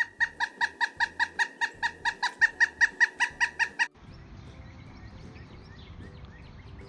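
A woodpecker calling in a fast, even series of short, sharp notes, about five a second, that stops abruptly about four seconds in. After that, faint outdoor background with soft, distant chirps.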